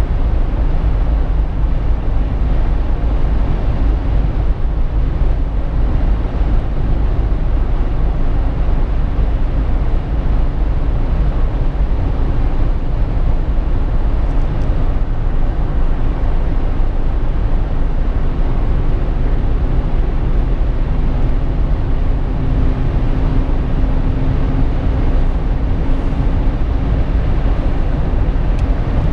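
Cabin noise inside a Jeep Wrangler JK under way: a steady rush of road and wind noise over a deep, constant rumble. A faint steady hum joins about two-thirds of the way in.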